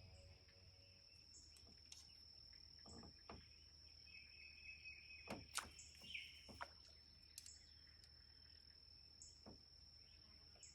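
Near silence: faint outdoor ambience with a steady high-pitched whine and a few soft clicks a little past the middle.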